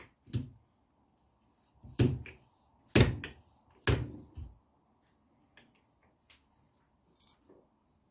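Irregular knocks and clicks of metal fork parts and tools being handled and set down: louder knocks about two, three and four seconds in, then a few faint ticks and a brief scrape near the end.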